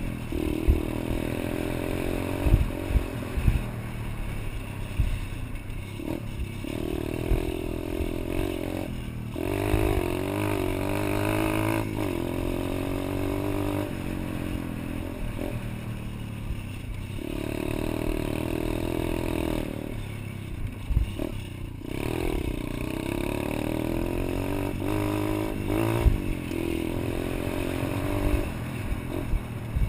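Small pit bike engine running while being ridden, revving up and falling back in repeated surges, with frequent short thumps and knocks.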